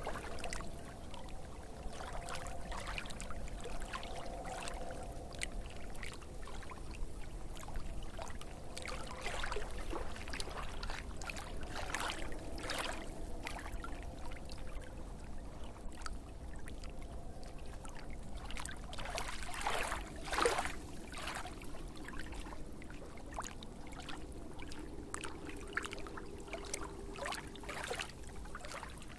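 Running water trickling and splashing, like a small stream, with frequent small splashes and gurgles.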